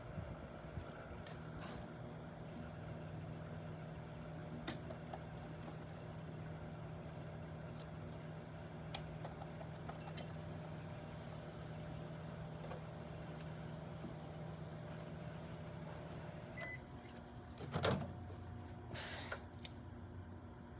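Microwave oven running with a steady hum, with a few sharp clicks along the way. Near the end the hum cuts off with a short beep, followed by a clunk and a brief rustle.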